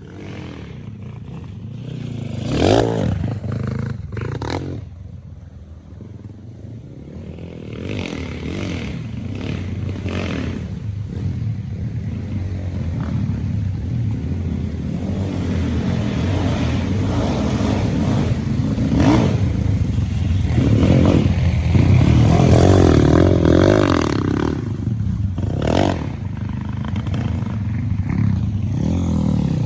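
Honda XRM125 underbone motorcycle engine revving up and down as it is ridden on a dirt motocross track. The engine is quieter at first and gets louder from about eight seconds in.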